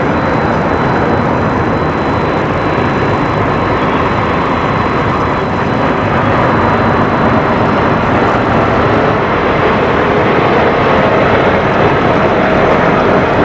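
Heavy vehicles passing with a steady, loud rumble and road noise, growing somewhat louder about halfway through.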